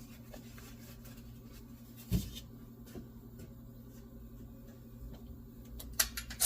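Steady low hum of a small room with a few light clicks and knocks of parts being handled: one thud about two seconds in and a sharper click near the end.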